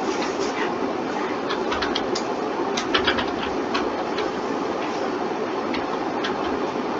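Irregular computer mouse and keyboard clicks, a cluster of them about three seconds in, over a steady hiss.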